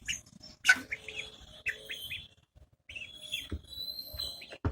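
Chickens chirping: short high peeps, a few of them falling in pitch, and some longer whistled notes. There is a sharp knock about two-thirds of a second in.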